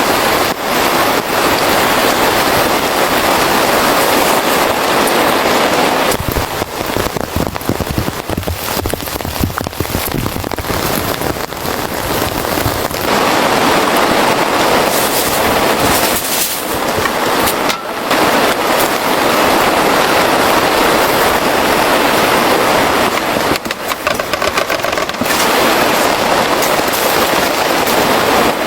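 Heavy rain falling steadily, with stretches of sharper crackling about a quarter of the way in and again near the end.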